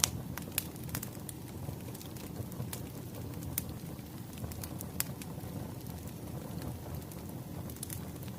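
Wood fire burning: a steady low rumble of flames with irregular sharp crackles and pops of the firewood, a few each second.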